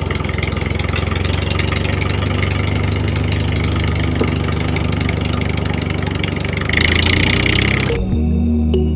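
Engine idling with a steady knock, getting louder and brighter near the end. It cuts off abruptly about eight seconds in and music takes over.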